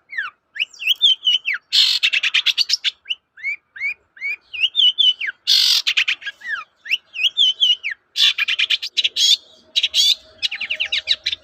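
Long-tailed shrike singing hard: short whistled notes that sweep up and drop back down, repeated in runs, alternating with harsh, rapid rattling chatter. A run of quick clipped notes comes near the end.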